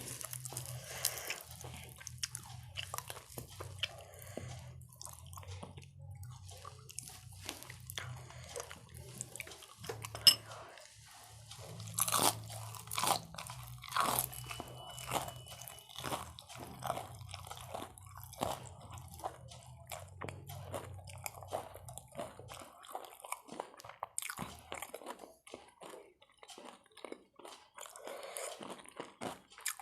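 A person biting and chewing crunchy food close to the microphone: irregular crunches and mouth clicks.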